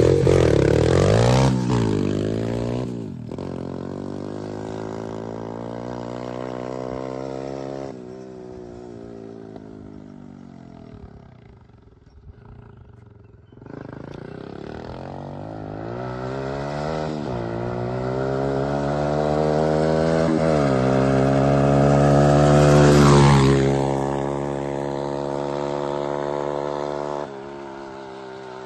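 125cc quad bike engine running under throttle, its pitch climbing and dropping again and again. It fades down in the middle, comes back louder, peaks near the end, then falls away.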